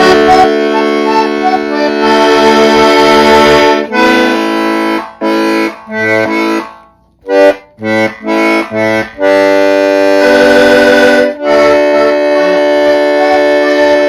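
Accordion playing held chords. A few seconds in, it breaks into a run of short, detached chords with a brief pause in the middle, then settles back into long sustained chords.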